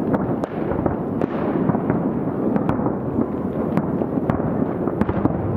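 Fireworks display heard from about 2 km away: a continuous rumble of many overlapping shell bursts, with scattered sharp cracks on top.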